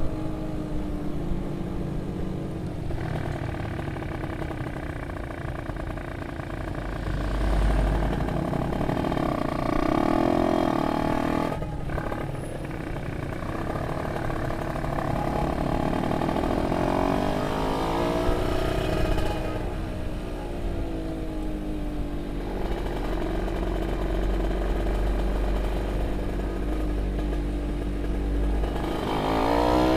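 A 40 hp two-stroke engine running, its pitch rising and falling with the throttle several times and climbing sharply near the end as it is revved up.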